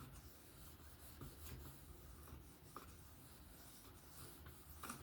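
Faint scratching of a 154CM steel knife edge drawn lightly across a ceramic sharpening stone in trailing passes, with a few short strokes. This is deburring: knocking off or fatiguing the burr left from sharpening.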